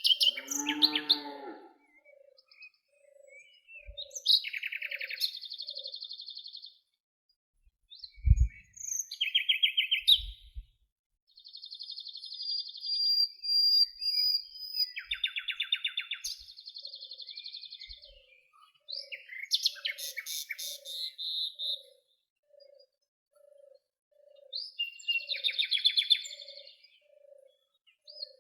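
Several songbirds singing in turn with trilled, buzzy phrases. Underneath, a soft low note repeats steadily, a little over once a second, through much of it. There is a brief low thud about eight seconds in.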